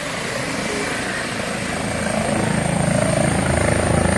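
Air ambulance helicopter's rotor chop with a thin, high turbine whine that rises slightly in pitch, growing louder from about halfway through.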